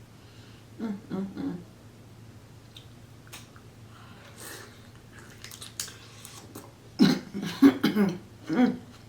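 A woman coughing and clearing her throat in short bursts, caught by the spice of hot seafood-boil sauce, with mouth clicks from eating in between. The loudest coughs come near the end.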